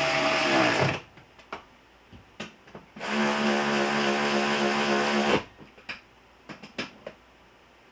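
A power drill run twice to drive bolts tight: its motor whines steadily for about a second and winds down, then runs again for over two seconds and stops abruptly. Light clicks and knocks of metal come in between.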